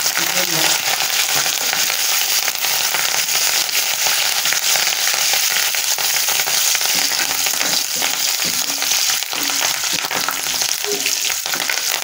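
Curry leaves, coriander and dried red chillies sizzling and crackling in hot oil in a nonstick kadai, stirred with a steel spoon.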